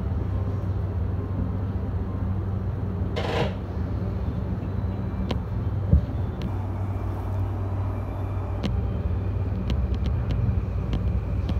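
Yamanote Line electric train standing at a platform with a steady low hum of its onboard equipment. A short hiss of air comes about three seconds in and a single thump near six seconds, then scattered clicks as the train starts to pull away.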